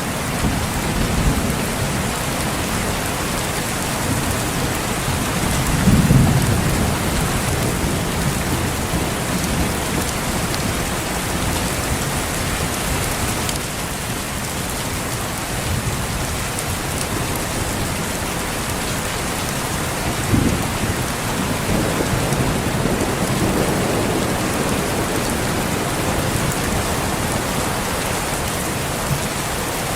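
Steady rain with distant rolls of thunder: a low rumble swells about six seconds in, and another begins suddenly around twenty seconds in and rumbles on for a few seconds.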